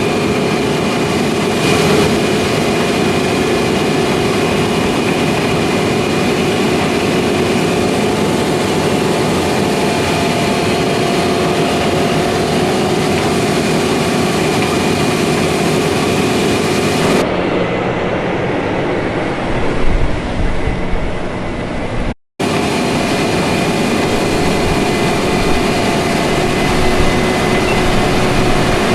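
Heavy harvest machinery running steadily at working speed. About two-thirds of the way through it switches to a duller, deeper engine sound, drops out completely for a moment, then returns to the first machine sound.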